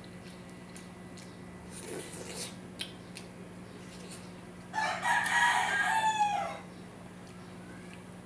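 A rooster crowing once, about five seconds in, a loud call of about two seconds that drops in pitch at the end.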